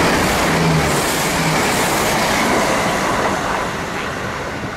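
GWR Class 165 Network Turbo diesel multiple unit passing close at speed: a loud rush of wheel and rail noise over a low diesel hum. The hum drops away after a second or two and the whole sound fades toward the end.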